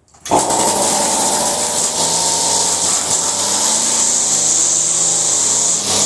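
Echo SRM-225 string trimmer's small two-stroke engine starting from cold on a pull, after months of storage, with the lever set to cold start. It catches about a third of a second in and keeps running steadily, high-pitched.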